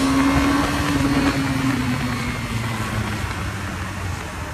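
Motorcycle engine running on the road under a constant rush of wind noise; its note drops slowly over the first few seconds as the bike eases off, then sinks under the wind.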